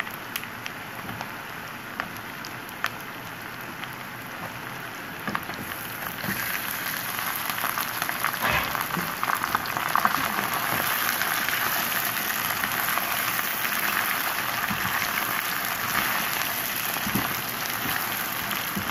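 Raw chicken pieces sizzling in hot mustard oil with lightly fried onions as they go into the pan and are stirred with a spatula, with a few light clicks in the first seconds. The sizzle grows louder and brighter about six seconds in.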